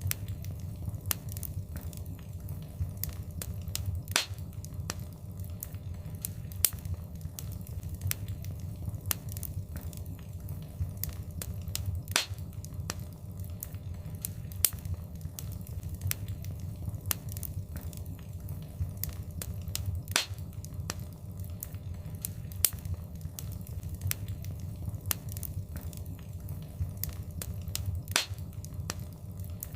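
Fireplace fire crackling, with irregular sharp pops and snaps over a low steady rumble of the flames. A few louder pops stand out now and then.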